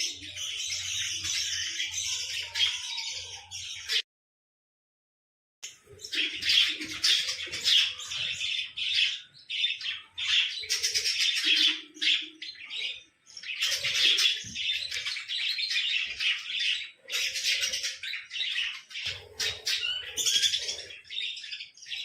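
Small birds chirping rapidly and almost without pause, with some squawks mixed in. About four seconds in, the sound cuts out completely for about a second and a half, then resumes.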